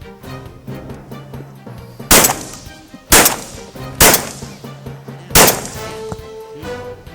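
Four shotgun shots about a second apart, the last after a slightly longer gap, each with a short fading echo, over background music.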